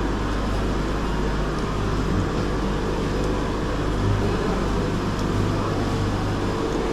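Steady machine hum under an even rushing noise, holding level throughout.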